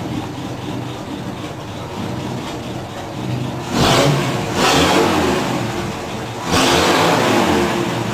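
A 1957 Plymouth's engine idles, then is revved three times from about four seconds in, each rev lasting a second or so.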